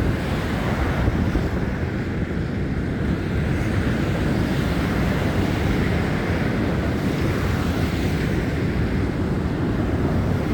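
Wind buffeting a phone's microphone in a snowstorm: a steady, rough rumble of noise, heaviest in the low end.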